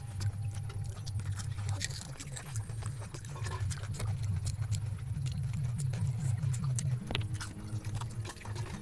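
Close-up chewing of pani puri: crisp fried puri shells crunching and crackling with many sharp clicks over wet munching.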